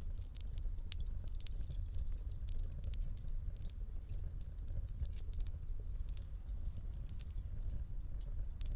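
Wood fire burning in a fireplace: dense, irregular sharp crackles and pops over a steady low rumble of the flames.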